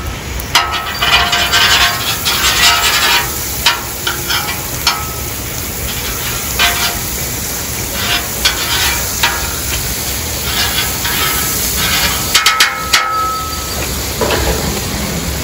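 Metal spatula scraping and tapping on a hot steel flat-top griddle as garlic butter is spread across it, an irregular run of scrapes and clicks over a steady sizzle of the melting butter.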